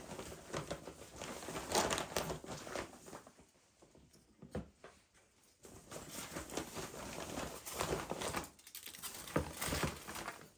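Irregular rustling and crinkling with light taps, with a quieter pause about four to five seconds in.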